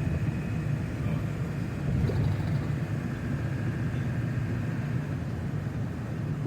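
Steady road and engine rumble of a vehicle driving at speed, heard from inside the cab.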